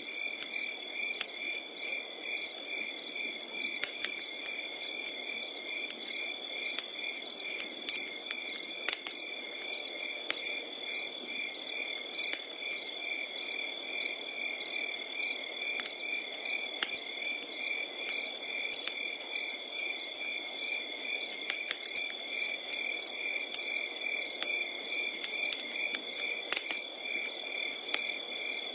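Crickets chirping in a steady, regular pulse about twice a second, over a wood fire crackling with scattered sharp pops and a soft low hiss.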